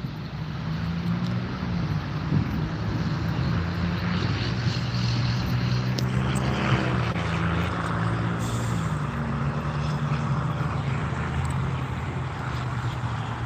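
Airplane engine drone, holding steady, with a brief glide in pitch about halfway through.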